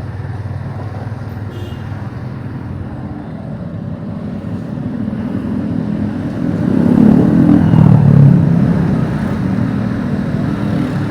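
Motorcycle engine running on the move, with road and wind noise; it grows louder from about four seconds in, peaks around seven to eight seconds, then eases off.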